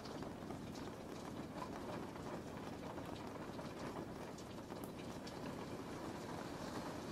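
Steady rain: an even hiss of rainfall with many faint scattered drop ticks.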